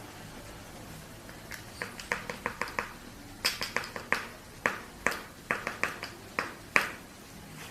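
Sharp taps on a mask bowl while face-mask powder is shaken and measured into it: about twenty separate clicks with a short ring, coming in quick runs of three to five, starting about one and a half seconds in.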